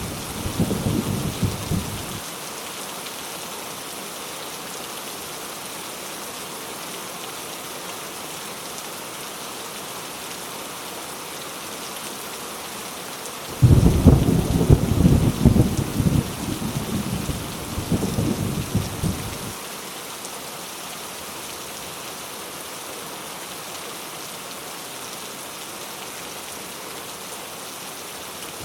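Steady heavy rain hissing throughout. A thunder rumble dies away in the first two seconds, and about halfway through a long peal of thunder breaks in suddenly and rolls for about six seconds.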